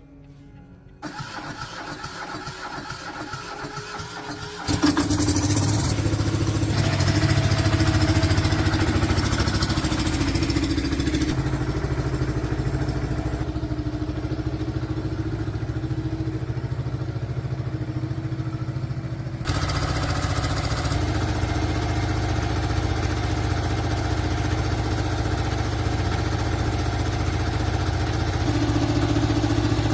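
Restored old tractor engine starting and then running steadily, with a quieter start for the first few seconds and much louder running from about five seconds in.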